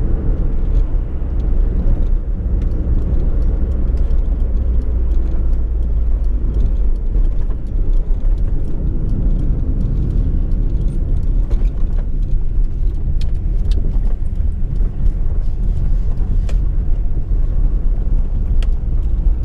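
Fiat Uno Mille driving along, its engine and road noise a steady low rumble heard from inside the cabin. A few faint clicks or knocks come in the second half.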